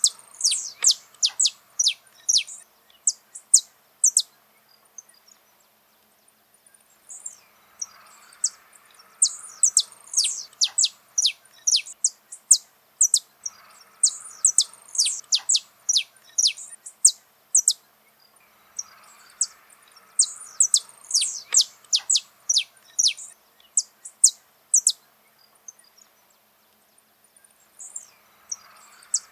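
Saffron finch singing: bouts of fast, high, downward-sweeping notes lasting several seconds each, broken by short pauses of a second or two.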